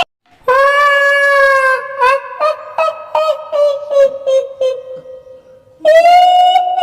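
A high, shrill female ghost voice in the manner of a kuntilanak: a long held wail, then a string of short cackling laugh notes, about three a second, that fade away, then another long wail starting near the end.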